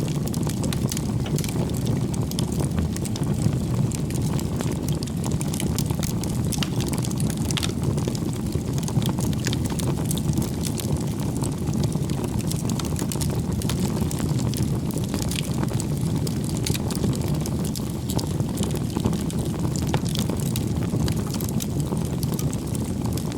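Wood bonfire burning: a steady low rush of flames with frequent small crackles and pops from the burning firewood.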